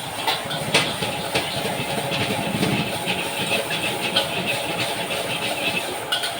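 Metal spatula clanking and scraping in a wok, several sharp irregular clanks, over a steady loud hiss of a gas burner and frying.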